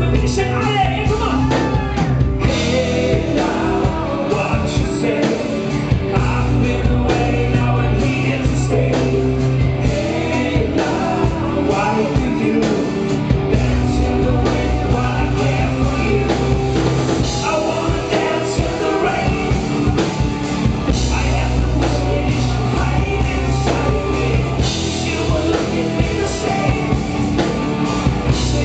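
Live rock band playing a full-band passage with drums, bass and guitar, with a voice singing along.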